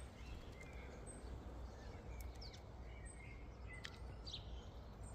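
Faint, short chirps of small birds, scattered through the second half, over a low, steady outdoor rumble.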